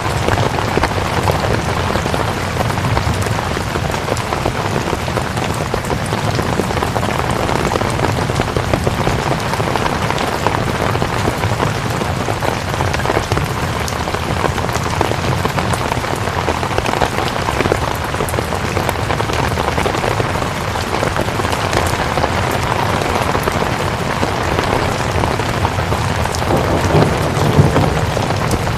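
Steady rain falling, an even hiss of many drops. Near the end a low rumble swells in.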